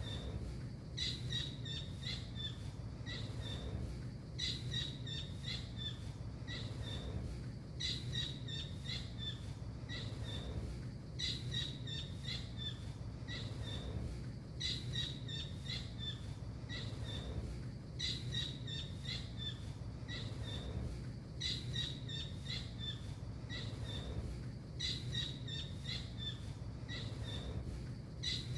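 Blue kingfisher (tengkek biru) calling: a run of quick, high, sharp chirps, the same phrase looped about every three and a half seconds, over a steady low hum.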